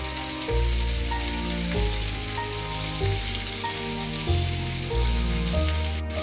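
Pork and tomato pieces sizzling as they fry in a wok, an even hiss, under background music with low bass notes changing about every second.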